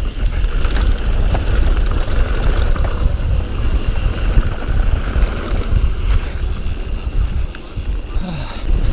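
Wind buffeting the microphone over the rumble of a mountain bike rolling down a dirt trail, with scattered light rattles.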